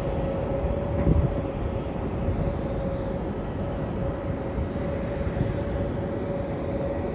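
Steady airport jet-engine noise: a low rumble with a constant mid-pitched whine, briefly louder about a second in.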